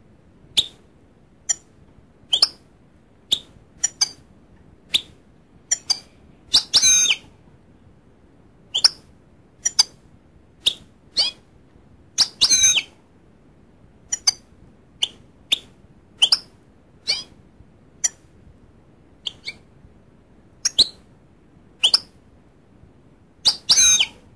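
Goldfinch calling: short, high chirps at irregular gaps of about a second, broken three times by longer twittering phrases.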